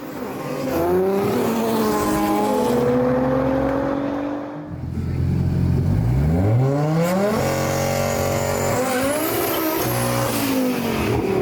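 Car engine accelerating hard: its pitch climbs, drops back briefly about halfway through, then climbs steeply again and holds high.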